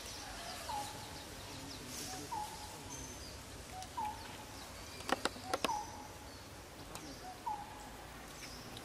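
Outdoor woodland ambience with a bird repeating a short note about every second and a half, and fainter high chirps. A quick run of about four sharp clicks comes a little after the middle.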